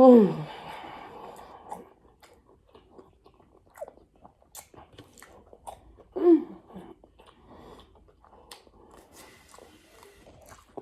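Close-miked chewing and mouth sounds of a person eating, with many small clicks and smacks. A short voice-like sound falling in pitch comes right at the start and again about six seconds in.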